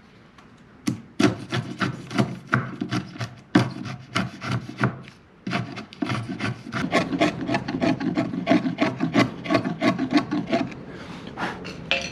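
Wood chisel scraping and paring across freshly milled lumber in many quick, irregular strokes, cleaning out the bottom of a sawn notch after the kerf waste has been broken out. The strokes start about a second in and pause briefly around the middle.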